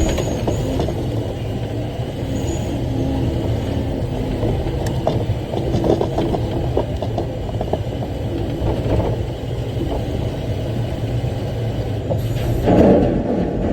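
Haul truck engine running under the cab, with a steady low drone and rattles and knocks from the cab as the truck drives. There is a louder rushing noise near the end.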